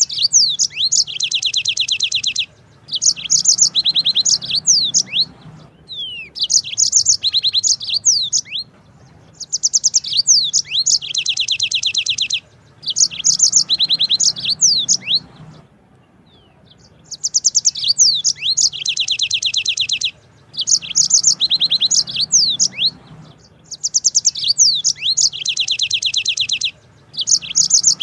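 Yellow-fronted canary (Mozambique canary) singing: repeated phrases of fast, high trills (long rolls) mixed with quick sweeping whistles, each a couple of seconds long with short pauses between.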